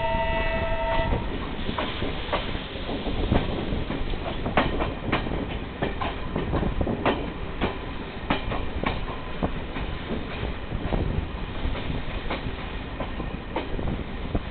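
Passenger train running on the rails, heard from aboard: a steady rumble with repeated sharp wheel clicks over the rail joints. A two-tone train horn is sounding at the start and stops about a second in.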